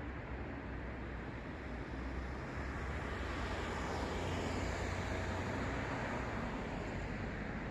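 Road traffic noise with a steady low rumble of cars; one vehicle's tyre hiss swells and passes about halfway through.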